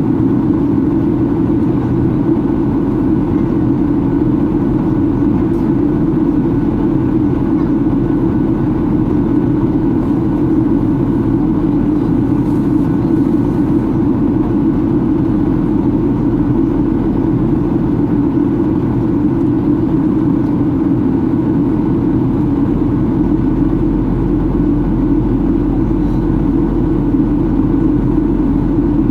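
Steady cabin drone of a Boeing 737-800 in flight: its CFM56-7B turbofan engines and the airflow over the fuselage make a constant low hum. A deeper rumble grows slightly stronger about three-quarters of the way through.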